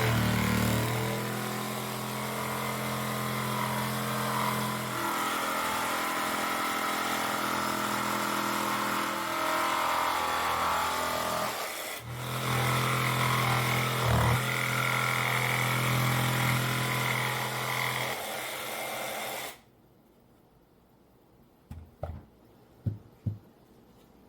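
Electric power saw cutting the state outline from scrap fence-board wood, running steadily with a short break about halfway, then switched off and cutting out suddenly near the end. A few light knocks follow.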